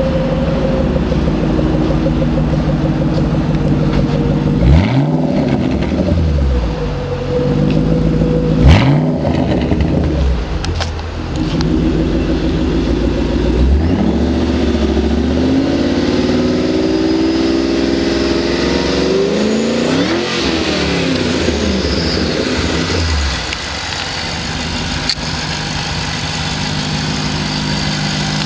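A 2009 Ford Shelby GT500KR's supercharged 5.4-litre V8 exhaust, idling and being revved. It gives three sharp blips of the throttle, the second the loudest, then a slower climb in revs that falls back to idle, and it settles into a steady idle.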